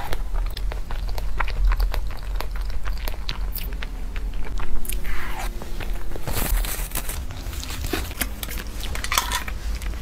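Close-miked chewing of a soft cream puff, with wet mouth clicks and smacks. A steady low hum runs underneath.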